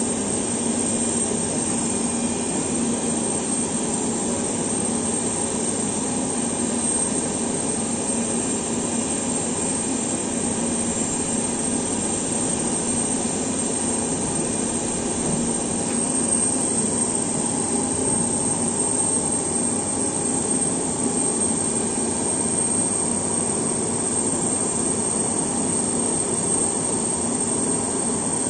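Aircraft turbine running steadily, a continuous rushing noise with a high steady whine, from around the Antonov An-124 cargo aircraft.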